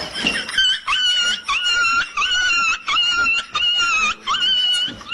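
A pet animal giving about eight short, high-pitched calls in quick succession, each rising sharply and then holding one pitch.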